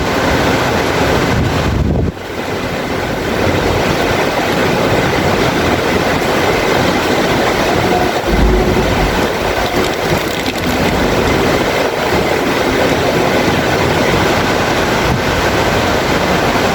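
Heavy rain falling steadily, with a low rumble underneath that drops away about two seconds in.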